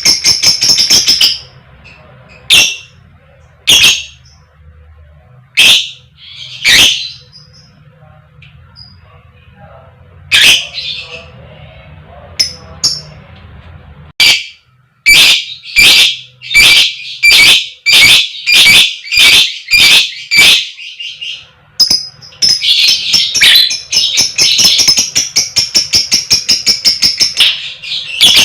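Lovebird giving sharp, high 'koek koek' chirps: a fast burst at the start, scattered single calls, then an even series of about two a second, and a dense rapid run of chirping near the end.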